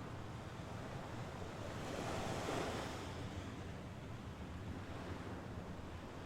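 Mediterranean Sea waves washing onto the shore, one wave breaking and swelling loudest about two and a half seconds in, then subsiding back into a steady surf wash.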